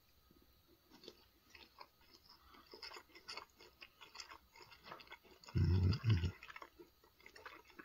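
A person chewing a mouthful of okra fried rice with sausage close to the microphone, many small irregular wet clicks. Two short, louder, deeper sounds come together about three quarters of the way in.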